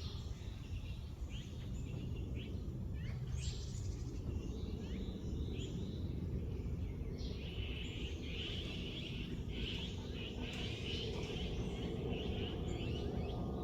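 Several wild birds chirping and calling in short, quick notes, getting busier from about halfway through, over a steady low background noise.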